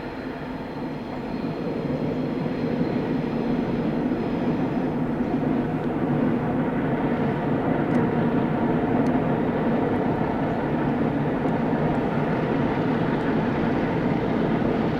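Train running past, a steady heavy rumble that grows louder over the first couple of seconds, then holds, with a few faint high ticks.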